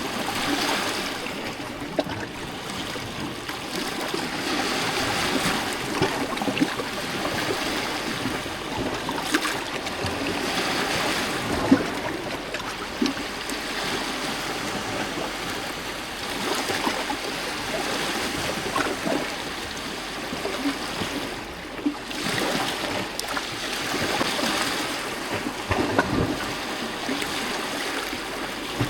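Small lake waves lapping and splashing against rocks at the shore, a continuous wash of water with many small irregular splashes that swell and ease every few seconds.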